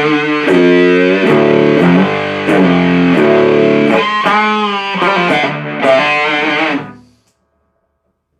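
Electric guitar through a 77 Fuzz Blender fuzz pedal, a Big Muff-style fuzz, playing a heavy riff with string bends. The riff ends about seven seconds in.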